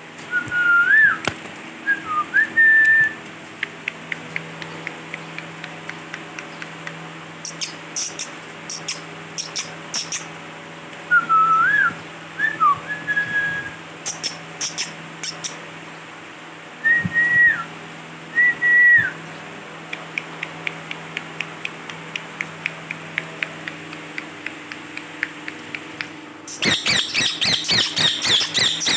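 Ringneck parrot whistling short gliding phrases three times, between runs of quick clicks and two brief bursts of high squeaks. Near the end it breaks into loud, rapid screeching chatter.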